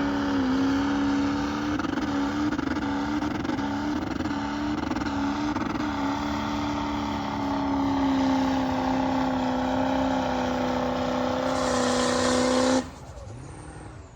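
A motor running at a steady speed: one strong, steady hum with overtones, wavering slightly for a few seconds, that cuts off abruptly near the end.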